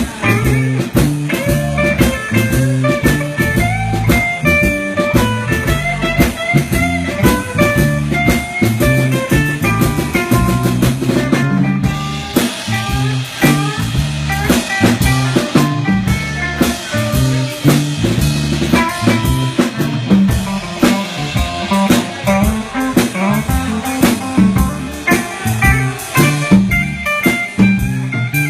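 Blues band playing an instrumental break: electric guitar solo over bass and drum kit.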